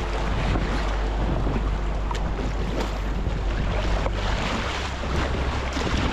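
Wind buffeting the microphone with a steady low rumble, over choppy sea water splashing around a kayak, with a few brief sharp splashes.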